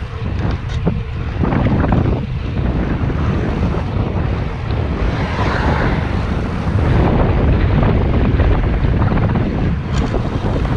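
Wind buffeting the microphone of a camera carried on a moving bicycle: a loud, steady low rumble.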